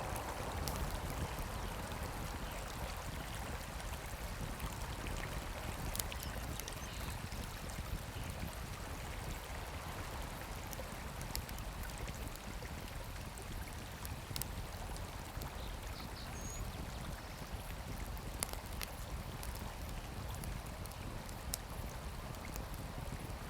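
Campfire crackling: scattered sharp pops and snaps every few seconds over a steady rushing background.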